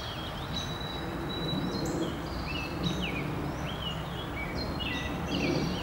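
Several songbirds chirping and singing, with many short sliding notes overlapping one another, over a steady low background rumble.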